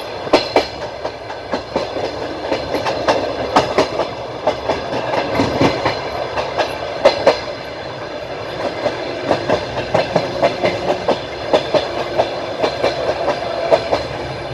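Wheels of a moving train clattering over the rail joints, heard from the train's window: a steady running rumble with frequent sharp clacks.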